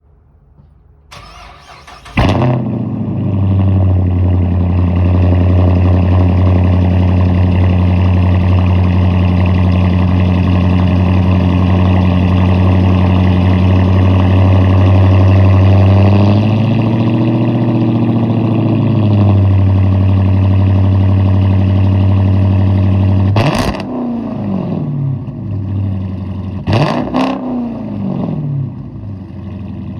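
Dodge Challenger R/T's straight-piped V8 cranking and firing up about two seconds in, then settling into a loud, steady idle. Near the end it gives two short blips of the throttle and drops back to a quieter idle.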